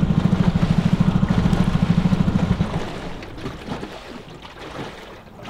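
A boat's outboard motor running with a rapid low throb, which stops about two and a half seconds in, leaving faint water sounds and small knocks.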